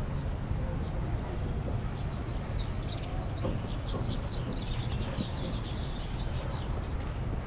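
Small birds chirping in quick runs of short, high notes, thickest in the middle, over a steady low background noise.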